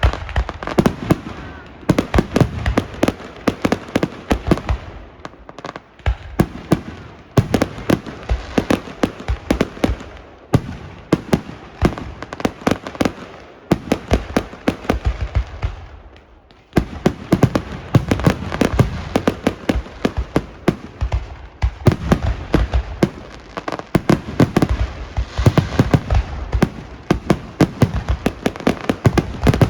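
Fireworks grand finale: a dense, continuous barrage of bangs and crackling reports, many a second, with a few short lulls, the clearest about halfway through.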